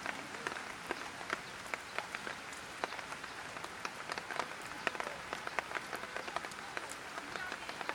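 Light rain falling: a steady soft hiss with many individual drops tapping sharply and irregularly on nearby surfaces.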